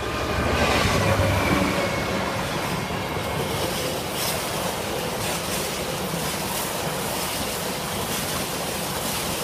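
Class 66 diesel freight locomotive passing close by, its engine tone loudest in the first second or so, followed by the steady rumble of freight wagons rolling past on the rails.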